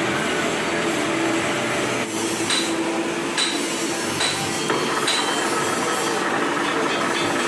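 Four ringing metal-on-metal strikes, like a hammer on steel, a little under a second apart, starting about two and a half seconds in. Under them runs a steady machine hum.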